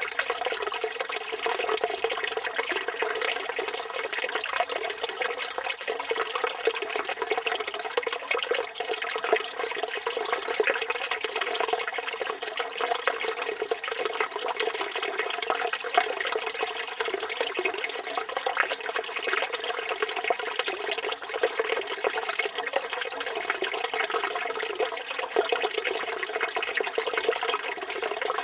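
Water running steadily from a village fountain spout, splashing into the stone basin below.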